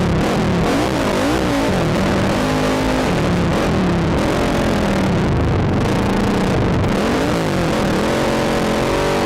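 ATV engine revving up and down repeatedly under the rider's throttle, its pitch rising and falling every second or so, heard from the rider's helmet camera.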